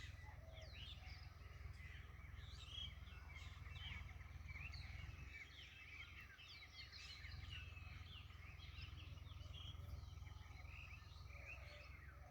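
Faint birdsong: many birds chirping at once in quick, overlapping calls, over a low steady rumble.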